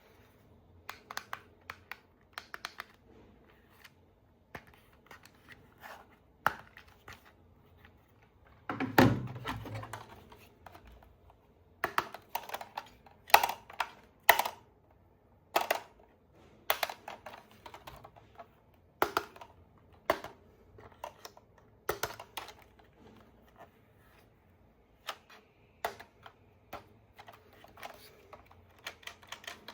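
Hands handling a plastic toy and its packaging: irregular sharp clicks and taps, with one heavier thud about nine seconds in.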